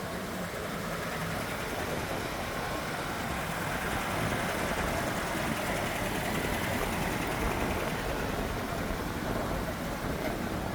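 Steady vehicle engine noise, a little louder in the middle.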